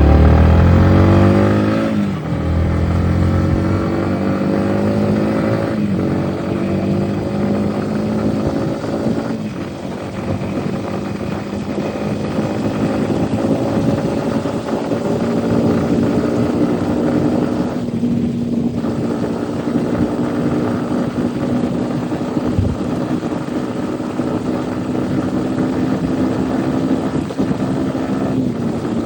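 Yamaha MT-15's 155 cc single-cylinder engine through its stock exhaust while riding. It revs up sharply at the start and shifts up a few times in the first ten seconds, then holds a steady, slowly rising note at cruising speed.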